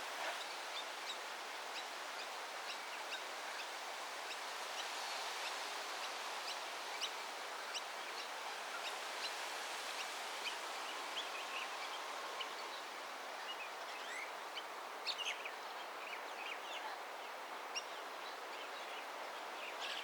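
Small birds chirping in short, scattered calls over a steady outdoor background hiss, the calls coming thicker about three quarters of the way through.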